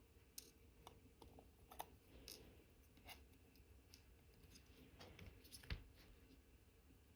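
Faint, scattered small clicks and taps of watchmaker's tools handling the parts of an Omega Cal.1109 wristwatch movement during reassembly, the sharpest click about five and a half seconds in.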